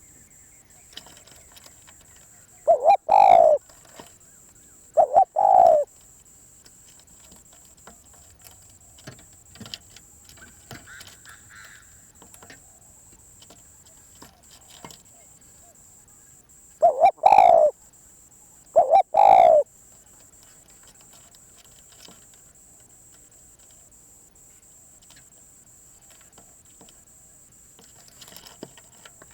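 Spotted dove cooing: two pairs of loud coos, the second pair coming about fourteen seconds after the first.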